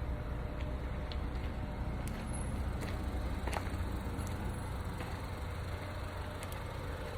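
Lincoln MKC's 2.0-litre turbocharged four-cylinder engine idling steadily after a cold start, with a few faint clicks over it.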